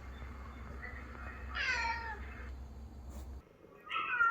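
Domestic cat meowing: one meow falling in pitch about one and a half seconds in, and another starting near the end.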